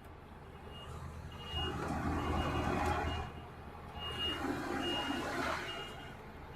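A truck's reversing alarm beeping, short high beeps repeated at one pitch, over a diesel truck engine that runs louder from about a second and a half in to three seconds.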